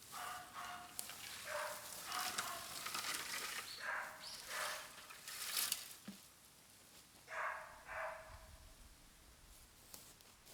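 Burning bamboo in a bonfire hissing and whistling in short bursts as steam escapes from the culms, about eight bursts in the first six seconds, then two more a little later.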